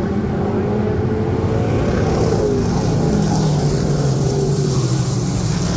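Dirt modified race car engine running, its pitch climbing and then dropping back over a couple of seconds, as when a car accelerates and lifts.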